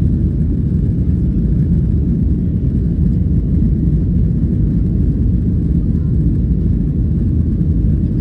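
Airliner cabin noise: a steady low rumble of the jet engines and airflow heard from inside the passenger cabin.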